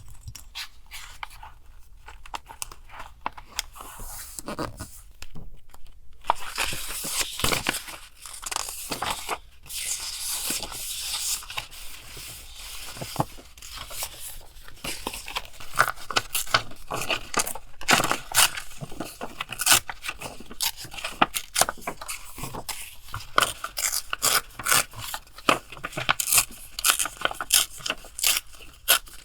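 Paper being handled and torn for journal collage: a stretch of rustling and tearing, then a long run of sharp, crisp snips and clicks of scissors cutting paper.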